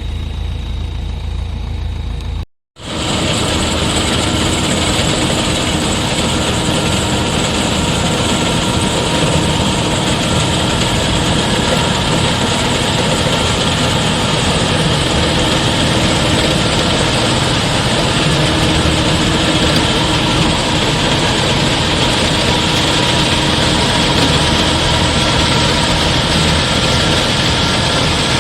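Rice combine harvester running steadily, its engine and machinery making a continuous mechanical drone. There is a brief dropout about two and a half seconds in, after which it comes back louder and brighter.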